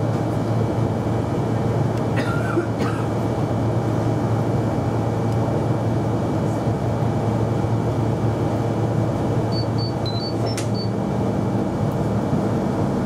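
Steady low rumble of trains and railway station noise. About eleven seconds in, a higher steady hum joins as an electric train passes.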